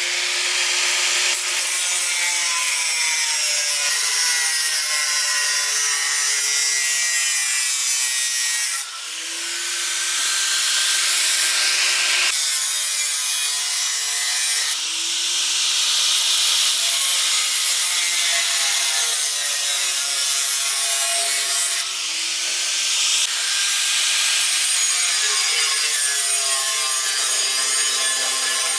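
Angle grinder working iron bars, running in long passes with a steady hiss and a wavering motor whine, broken by brief pauses a few times.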